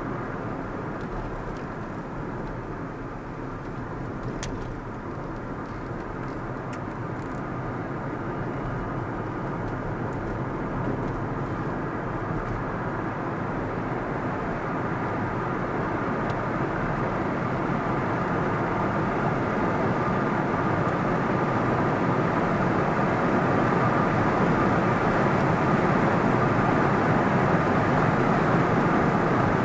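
Car driving along a road: steady engine and tyre noise that grows gradually louder through the stretch.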